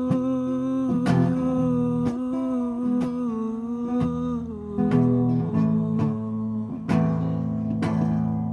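Instrumental passage of a home-recorded song: a strummed acoustic guitar, about one strum a second, under a long held wordless melody line that slides down in pitch about four and a half seconds in.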